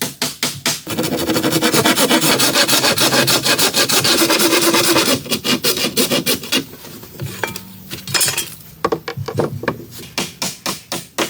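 Wood being hand-sawn in quick, steady strokes for about four seconds, starting about a second in. Before and after the sawing there are quieter scrapes, and runs of rapid, evenly spaced knocks return near the end.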